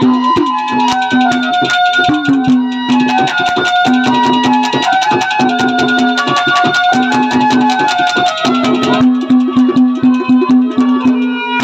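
Instrumental interlude of Haryanvi ragni folk music: a harmonium playing a fast melody with held notes over rapid, steady hand-drum strokes, with no singing.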